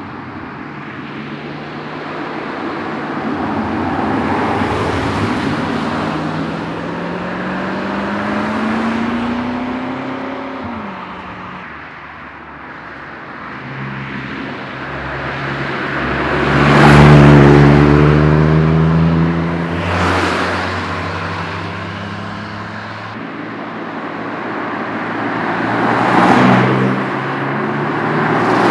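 Enthusiasts' cars driving past one after another, engines accelerating. One engine climbs in pitch through a gear early on, and the loudest car passes close about 17 seconds in, with further pass-bys around 20 and 26 seconds.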